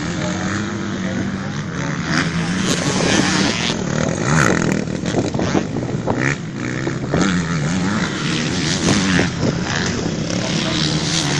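Motocross bike engines racing, revving up and down as the bikes ride the track.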